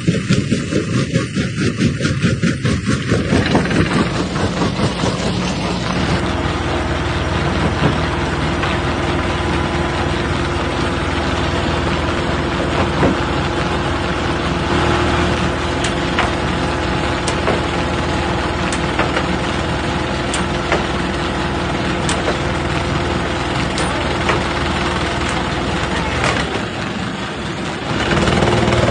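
Stone crushing machine running under power with a steady, heavy drone and scattered sharp cracks. The sound changes a few seconds in and grows louder near the end.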